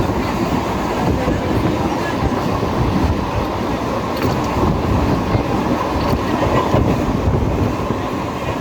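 Mumbai suburban local electric train running, a loud steady rumble of the carriage and wheels on the track.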